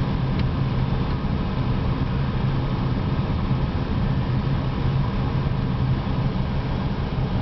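Car engine idling with a steady low hum, heard from inside the parked car's cabin.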